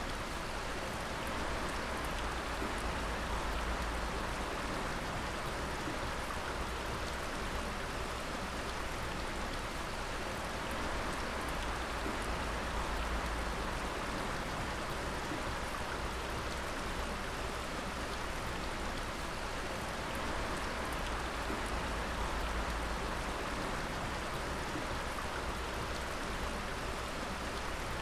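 Water dripping steadily, many drops pattering over an even watery hiss.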